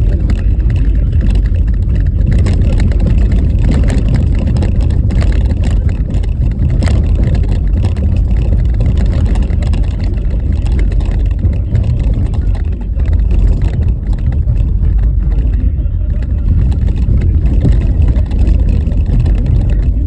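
Car driving over a rough, rutted snow-covered road: a loud, steady low rumble of tyres and suspension, with frequent small knocks and jolts from the uneven surface.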